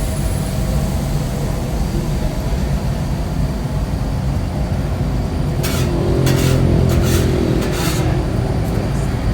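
A vehicle engine running steadily with a low rumble. Its pitched hum swells about six seconds in. Several short hisses come near the end.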